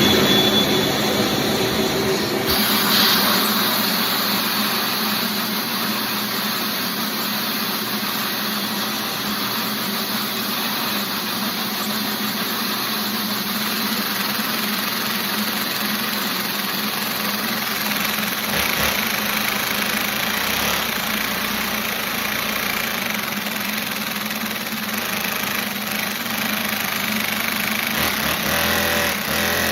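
A small engine, just fitted with a starter, running steadily at a high, even speed after being started.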